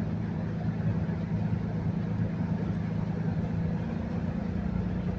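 River motor ship's diesel engines running, a steady low drone.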